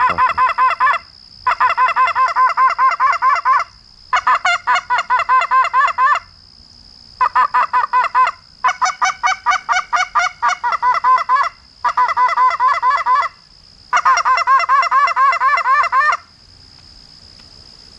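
Hand-blown goose call worked hard in quick runs of short clucks and honks, seven bursts of one to two seconds each with brief pauses between, calling to incoming geese.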